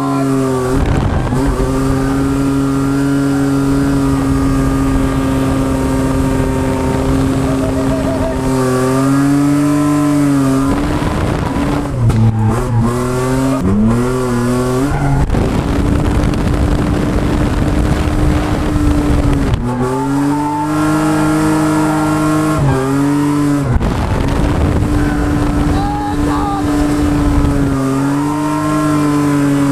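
Ford FG Falcon ex-taxi drift car's engine held at high, steady revs during a drift. The revs drop and climb again several times, with rapid blips for a few seconds in the middle.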